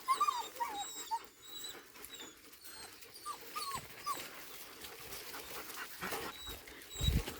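Puppies whining in short, high-pitched whimpers that rise and fall, about a dozen scattered through the first four seconds, with a couple of low thumps near the end.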